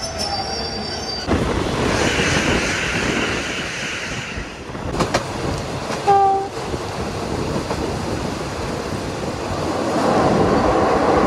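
A train running on the rails, heard from aboard: a steady rumble and rattle of wheels on track. A high screech sounds for about two seconds near the start, then a sharp click and a short pitched tone come around the middle, and the running noise grows louder near the end.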